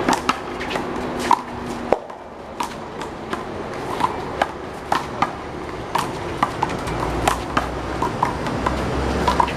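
One-wall handball rally: the rubber handball is struck by hand and bounces off the wall and the court, giving a quick, irregular run of sharp slaps and bounces, many with a brief hollow ring.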